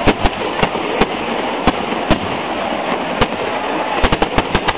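Fireworks display: sharp bangs of bursting shells at irregular intervals, then a rapid cluster of bangs near the end, over a continuous background noise.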